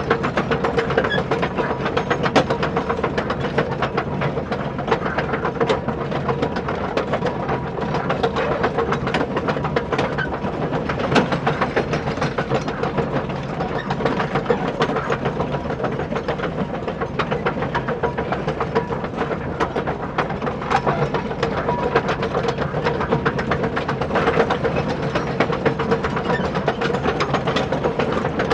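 Small electric motor and plastic gearbox of a radio-controlled toy construction vehicle running steadily, a constant whine with a fast, rattling clicking of gears.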